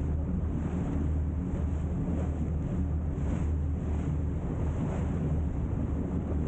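Wind buffeting the microphone over water rushing past a sailboat under way, with a steady low rumble underneath.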